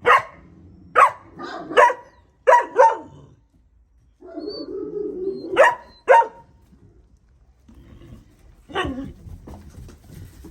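2.5-month-old puppies barking in short, sharp barks: a quick run of five in the first three seconds, two more near six seconds and one near nine seconds, with a lower drawn-out sound between them.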